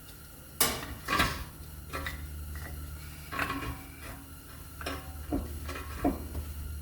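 Metal clinks and clacks of a brake pad being worked into its caliper bracket, about seven sharp knocks at uneven intervals.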